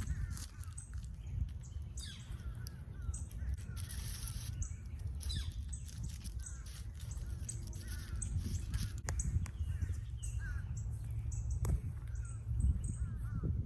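Birds calling, with many short chirps and calls, over a steady low rumble, with scattered sharp clicks.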